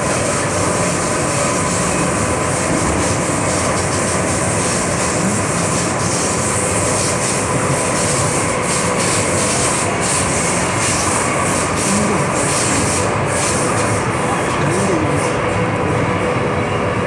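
MTR M-train electric multiple unit running along the track: a continuous, even rumble and rush of wheel and running noise with a faint steady whine.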